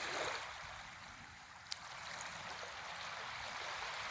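Faint, steady rush of water, like small waves or lapping along a shoreline, with a single faint click a little under two seconds in.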